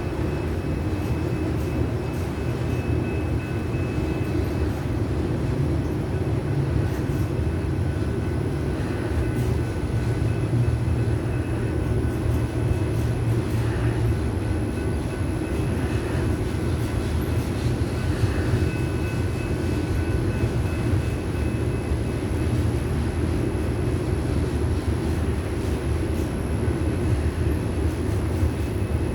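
Freight train cars rolling past at moderate speed: a steady low rumble of steel wheels on rail, with faint steady high tones above it.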